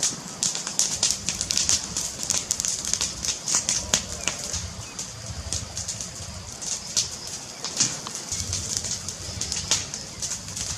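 Wood fire crackling in a fireplace: irregular sharp pops and snaps over a steady hiss and a low rumble of the burning.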